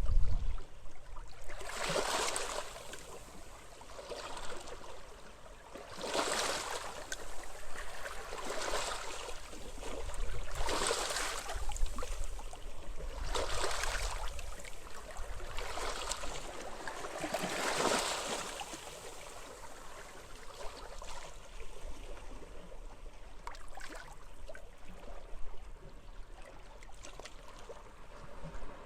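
Small sea waves washing onto a beach, one wash every two to three seconds, growing weaker in the last third, over a low rumble of wind.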